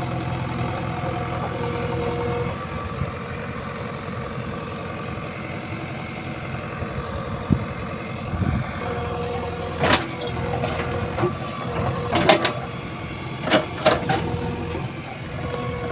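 JCB 3DX backhoe loader's diesel engine running steadily, with a few sharp knocks and clanks in the second half, loudest near the end.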